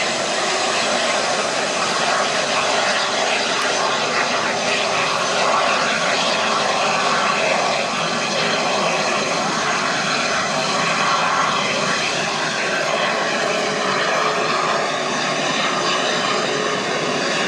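Airliner jet engines, a loud steady rush with a faint high whine that dips slightly in pitch near the end.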